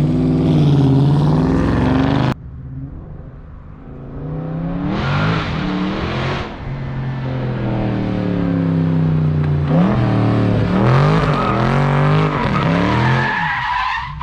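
Dodge Charger Scat Pack's 392 HEMI V8 with catless mid-pipes revving hard, its pitch rising and falling over and over, with tyres squealing as the car slides. The sound cuts off abruptly about two seconds in, then the revving and tyre squeal pick up again.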